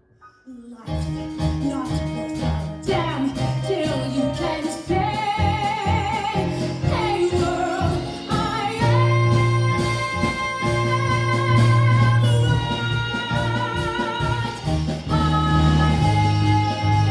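A song with a woman singing over a band backing track, starting about a second in, with long held notes with vibrato.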